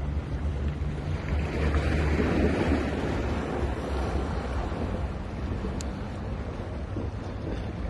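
Ocean waves breaking on a beach: a wave surges up about two seconds in and then washes back into a steady hiss of surf. Under it runs a steady low rumble of wind on the microphone.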